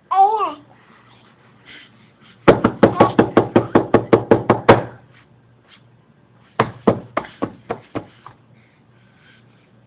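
A short squeal falling in pitch, then two runs of rapid knocking on a hard surface: about fourteen quick, even knocks, a pause, then about eight more that slow down and fade.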